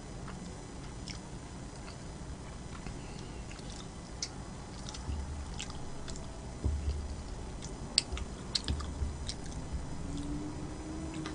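Close-miked chewing and wet mouth sounds of a person eating, with scattered small clicks and smacks. There are a few soft low thumps between about five and nine seconds in.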